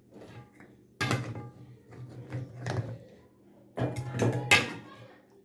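Eating sounds at a meal of bone soup and ugali: three short clusters of noisy mouth and utensil sounds about a second apart, with a sharp knock near the end.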